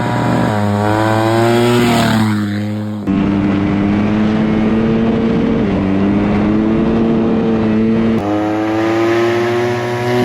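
Off-road vehicle engine running loud and close, rising in pitch as it accelerates, then holding a steady speed. The sound changes abruptly twice, about three and eight seconds in.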